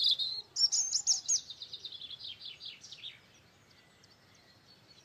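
Small songbird singing: a few high chirps, then a quick run of rapid notes that tails off and fades about three seconds in.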